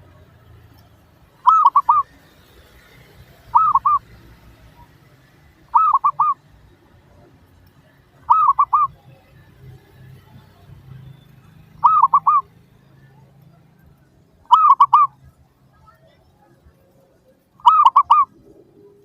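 Zebra dove (perkutut) cooing: seven short, loud bursts of quick rolling coo notes, one every two to three seconds.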